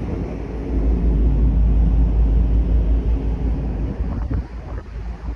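Low, steady rumble of a large car ferry getting under way, with wind buffeting the microphone.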